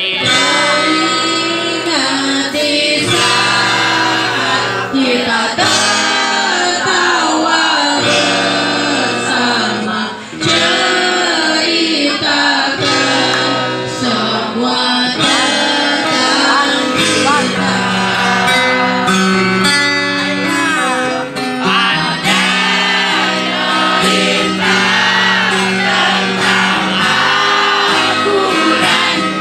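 A song: a voice singing held, wavering notes over guitar accompaniment.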